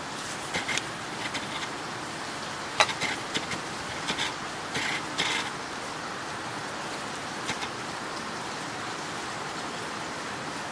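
Steady hiss of heavy rain, with a scatter of light clicks and scrapes from kitchen utensils being handled, most of them in the first five seconds.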